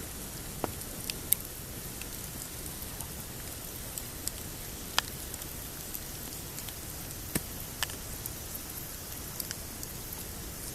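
Pine campfire crackling: irregular sharp pops and snaps, a few each second, the loudest a little over a second in and about halfway, over a steady rushing hiss.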